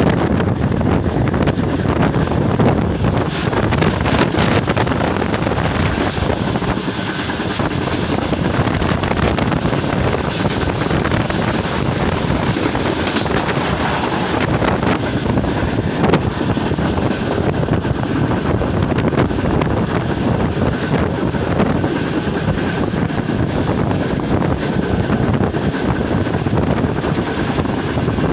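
Wind buffeting the microphone over the steady running noise of a passenger train moving at speed, heard from an open coach door or window.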